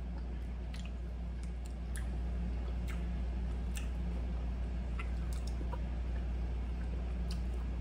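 People chewing a small snack, with scattered soft mouth clicks, over a steady low hum.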